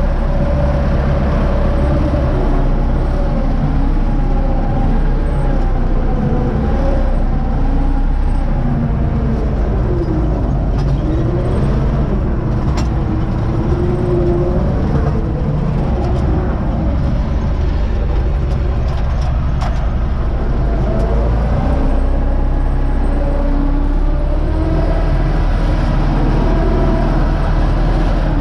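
The UTB U650 tractor's four-cylinder diesel engine running steadily, its pitch drifting gently up and down.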